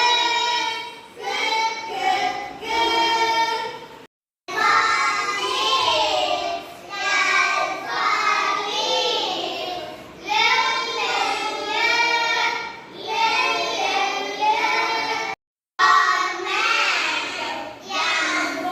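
A group of young children singing together, likely a phonics song. The singing drops out into complete silence for a moment twice, about four seconds in and near the three-quarter mark.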